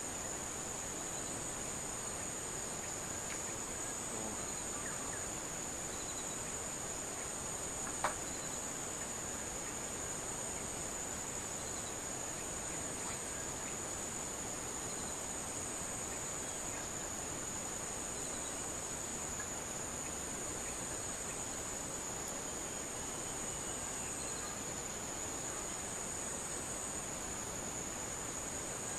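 Steady high-pitched chirring of insects, with a single sharp click about eight seconds in.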